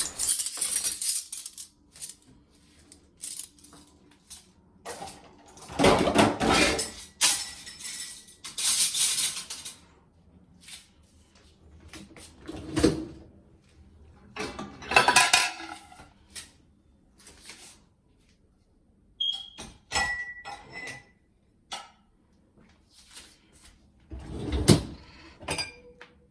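Clean ceramic dishes and cutlery clinking and clattering as they are handled at the dishwasher, in irregular bursts with short pauses between them.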